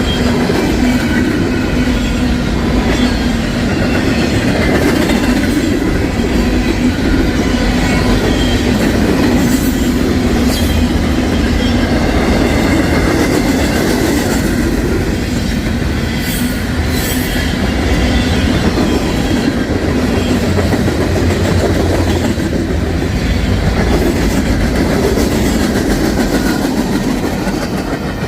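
A Union Pacific manifest freight train's cars rolling past, with a steady rumble of steel wheels on rail and clacking over the rail joints.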